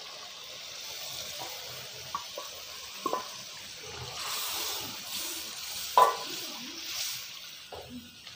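Chicken frying in a karahi, sizzling steadily as yogurt is poured in and stirred with a wooden spoon. The sizzle swells about halfway through, and there are a few short knocks of the spoon against the pan.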